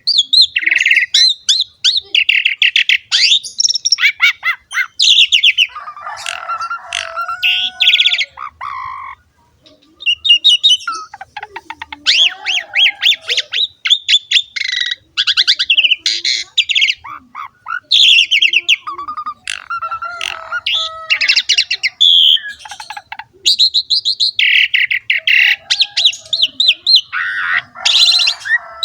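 Asian pied starling (jalak suren) in full song: fast runs of repeated high chirps and whistles, broken by harsher, squawky chattering phrases. There is a short pause about nine seconds in. This is the busy, varied 'gacor' song full of fills that keepers play to get other starlings singing.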